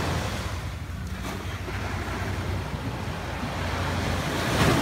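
Wind rumbling on the microphone over the steady wash of surf, swelling briefly near the end.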